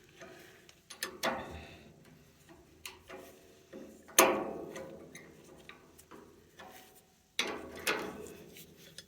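Metal hand tools being handled, with scattered clicks and clinks and a louder clank about four seconds in.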